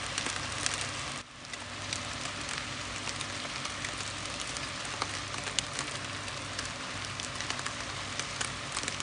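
Chicken and vegetables frying in a pan: a steady sizzling hiss with scattered small pops, dipping briefly about a second in.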